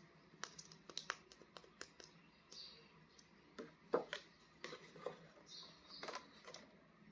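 Faint scattered clicks and taps of small plastic action figures being handled, with brief light rustling now and then.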